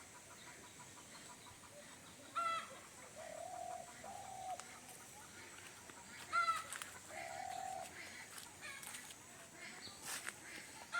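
Chickens calling and clucking, with two louder sharp calls about two and a half and six and a half seconds in, and longer, lower drawn-out calls between them.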